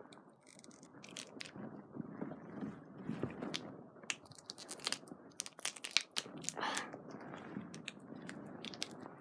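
Plastic candy packaging crinkling and crackling with irregular sharp clicks as it is twisted and pulled in a struggle to open it.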